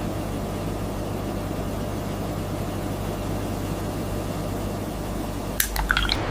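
Steady low machine hum with an even hiss, broken near the end by a short cluster of clicks and brief squeaks.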